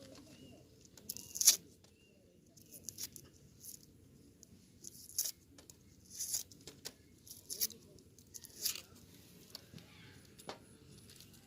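Dry papery onion skins being peeled off by hand: irregular short crackles and tears, the loudest about a second and a half in.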